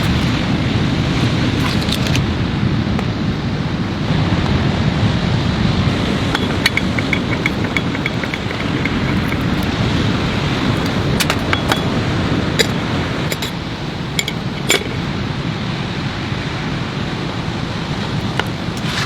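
Steady rain and wind noise, with a scattering of sharp clinks and taps from small hard objects being handled, clustered in the middle.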